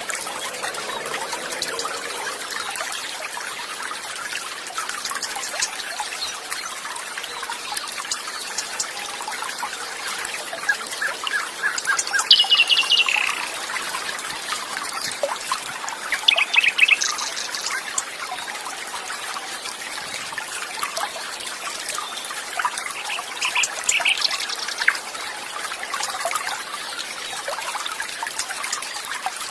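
Water trickling and flowing steadily, with songbirds calling over it in short rapid trills, the loudest about twelve, sixteen and twenty-four seconds in.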